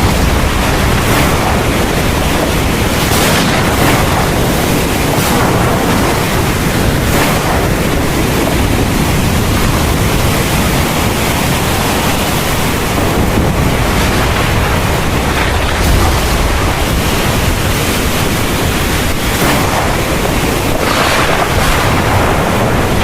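Heavy rain pouring steadily with wind, swelling briefly in places, over a constant low rumble.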